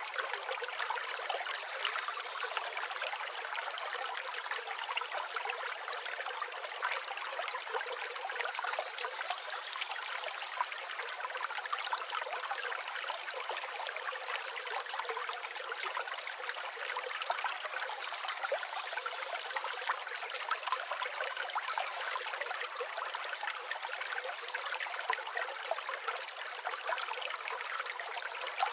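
River water flowing in a steady, even babble.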